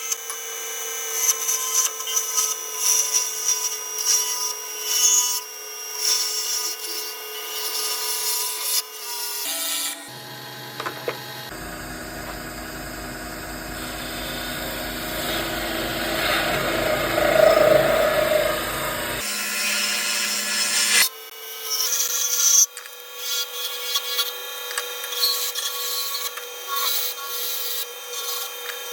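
Wood being turned on a lathe: a tool scraping and cutting the spinning wood, on and off in uneven strokes. A steadier, deeper-sounding stretch of work comes in the middle.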